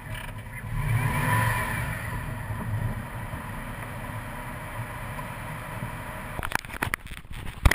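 Subaru WRX engine running at low speed, a little louder about a second in, then settling to a steady idle. Near the end come several sharp knocks and clicks from the camera being handled.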